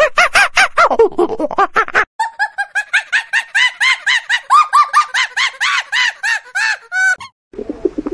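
Animal calls in two quick runs of repeated rising-and-falling notes: a first run at about six calls a second breaks off about two seconds in, then a second, higher-pitched run at about five calls a second goes on until near the end, followed by a brief different sound.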